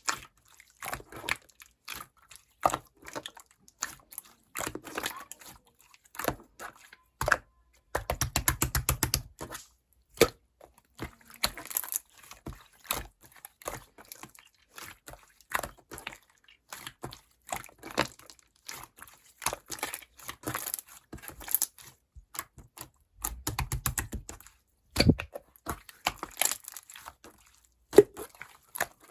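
Clear slime being squished and pressed by hand, making scattered clicks and pops, with two quick runs of rapid popping clicks, about a third of the way in and again near the end.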